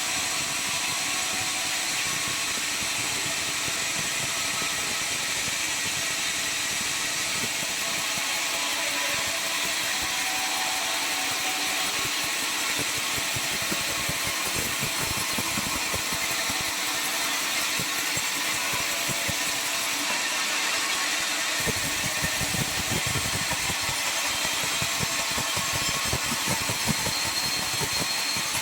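Sawmill circular saw machine running with a steady, loud whine-and-hiss. About 22 s in the sound grows rougher and more uneven in the low end.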